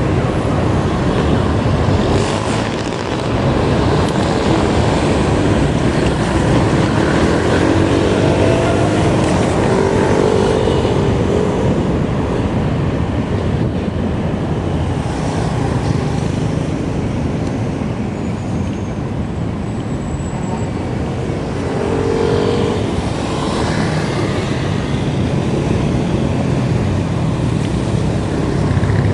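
Steady rush of wind and road noise from riding, with faint brief tones about eight seconds in and again about twenty-two seconds in.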